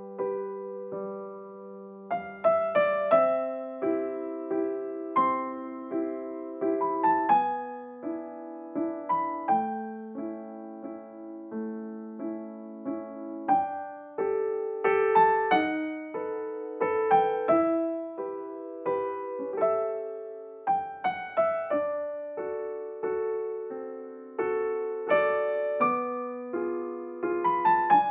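Solo piano background music: a gentle, slow melody over sustained chords, each note struck and fading away.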